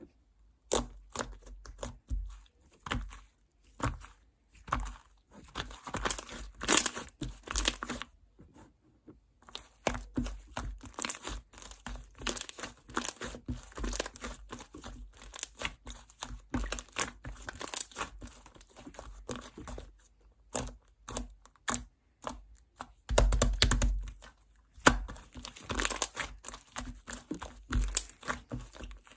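Thick, chewy slime being squished, stretched and folded by hand, giving sticky crackling and popping in irregular bursts, with a couple of short pauses.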